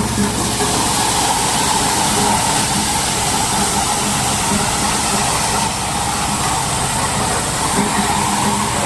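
Motorised corn sheller running steadily: a loud, even mechanical whir with a dense hiss and a low hum.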